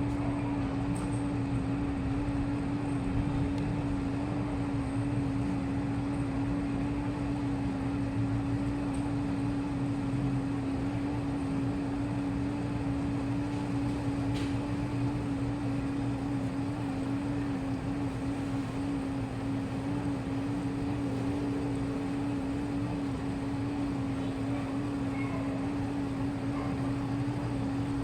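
Washing machine spinning its drum at a constant fast speed: a steady motor hum holding one pitch over an even whirring noise.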